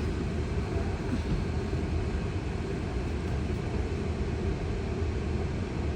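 Steady low road and tyre rumble heard inside a Tesla's cabin as the car rolls slowly along.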